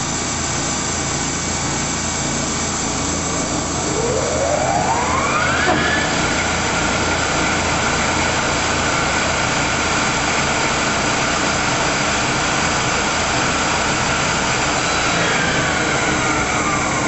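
Monarch 20 x 54 engine lathe running, its spindle set at 1750 RPM: a whine rises over about two seconds as the spindle spins up about four seconds in, runs steady at top speed, then falls away near the end as it winds down, over the steady hum of the machine.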